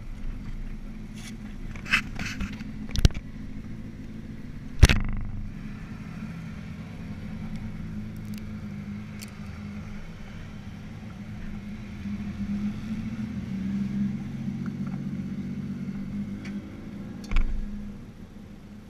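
Motorcycle engine idling steadily, with a few sharp knocks over it, the loudest about five seconds in and another near the end.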